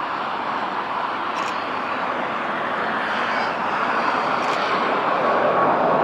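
Jet airliner engine noise approaching: a steady rush that grows gradually louder as the plane comes in to land.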